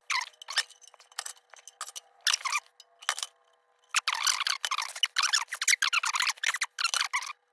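A brush scratching in many short, quick strokes on the sheet metal of a kerosene lantern while paint stripper is dabbed on, with light metallic clinks; the strokes come thickest about four and six seconds in.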